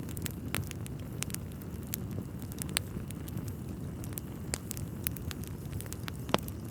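Wood fire burning in a fireplace: irregular crackles and sharp pops from the burning logs over a steady low rumble, with one louder pop near the end.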